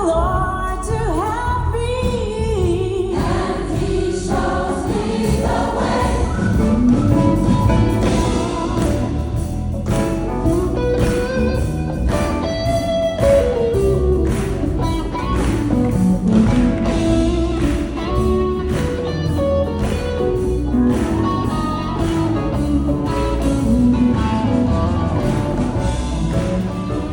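Gospel choir singing a song with instrumental accompaniment and a steady beat.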